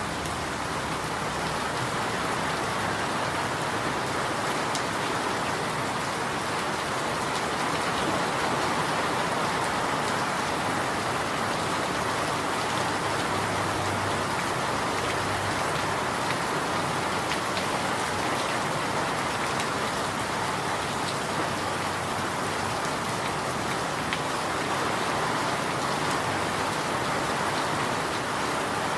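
Steady rain falling, an even hiss with a few faint drop ticks and no change in intensity.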